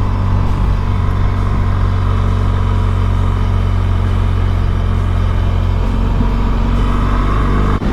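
Motorcycle engine running steadily at an even pitch, with a slight change in its note about six seconds in.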